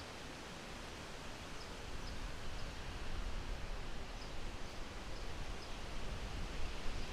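Outdoor woodland ambience: a steady rustling hiss, like wind through trees, with a few faint, short high chirps. A low wind rumble on the microphone builds about two seconds in.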